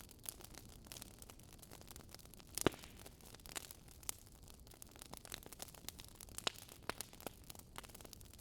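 Wood fire crackling: irregular small pops and snaps over a faint hiss, with one louder pop a little under three seconds in.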